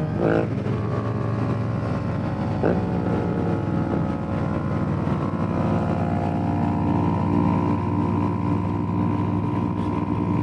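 Motorcycle engines running steadily at cruising speed, several bikes riding together in a pack, with a steady engine note and wind rushing past the microphone. About three seconds in, the pitch briefly rises and falls.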